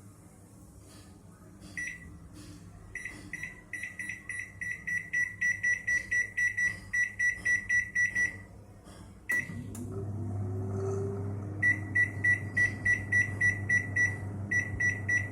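Microwave oven control panel beeping rapidly, about three to four beeps a second, as grill mode and the time are set. About nine seconds in, a click sets off the oven's steady low running hum, and more rapid beeps follow over it.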